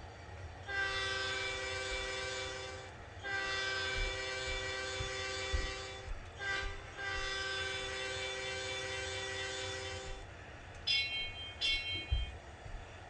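The EZ App locomotive's multi-note chime whistle sounding a long, long, short, long pattern, the grade-crossing signal, followed by two short, higher-pitched toots, over a low running rumble.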